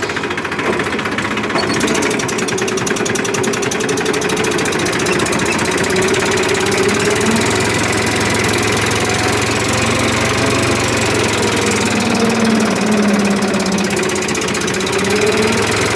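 Tractor's diesel engine running hard under load, pulling a fully loaded gravel trolley; it gets louder about two seconds in and its pitch rises and falls as it works.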